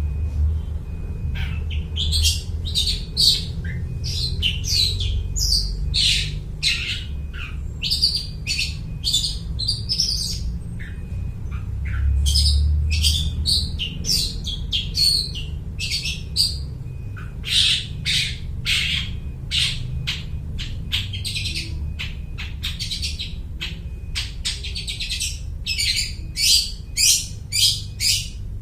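Long-tailed shrike singing a fast, unbroken run of short chirps and harsh squawky notes, mimicking the calls of other birds.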